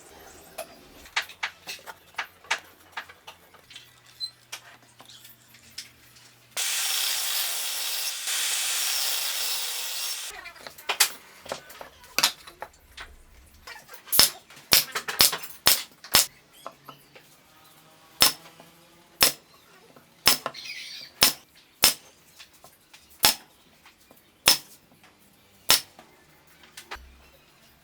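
Woodworking on pallet wood: scattered light taps and knocks, a few seconds of a loud, rasping power tool starting about six seconds in, then a run of sharp knocks about one a second through the second half. Faint background music runs underneath.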